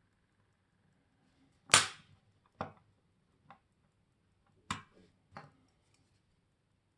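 Five sharp clicks and knocks, the first, about two seconds in, much the loudest, from small tools or watch parts being handled and set down on a watchmaker's bench.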